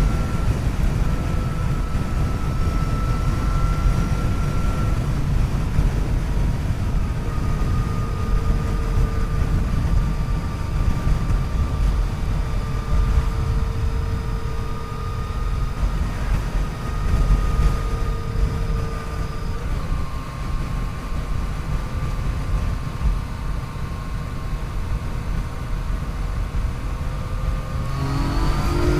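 Yamaha FJ-09's three-cylinder engine pulling steadily at cruising speed under loud wind and road rush, its note holding nearly level and then rising near the end as the bike accelerates.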